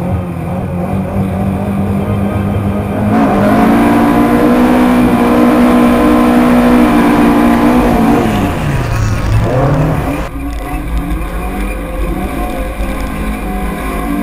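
Lada Zhiguli (VAZ) race car's engine running hard under load on a dirt track. About three seconds in it gets louder and holds a high steady note. Around eight and a half seconds in the revs dip sharply and climb back again.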